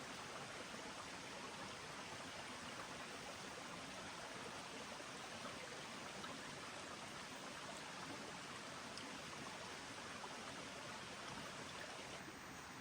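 Steady rushing noise of running water, changing in tone shortly before the end.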